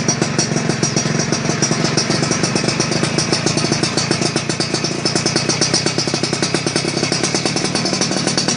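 Yamaha F1ZR single-cylinder two-stroke engine running steadily through an aftermarket racing exhaust with a galvanised pipe and aluminium silencer. It gives a rapid, even crackle with a crisp, jingling ring.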